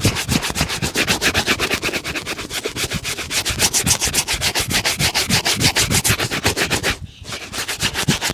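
A shoe being buffed by hand in fast back-and-forth strokes, about five a second. There is a brief pause about seven seconds in, then the strokes resume.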